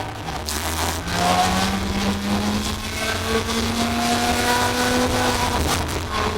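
Racing kart engine pulling hard along a straight, its pitch climbing steadily for about four seconds, then dropping near the end as it comes off the throttle.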